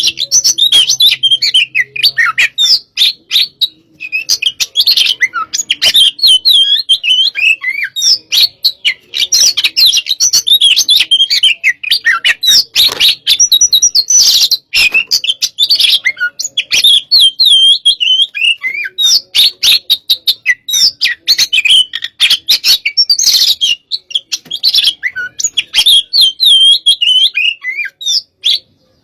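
Oriental magpie-robin (kacer) singing loudly and almost without pause: a fast run of sharp chirps, whistles and clicks, with a short break a few seconds in. It is the heated, aggressive 'hot type' song.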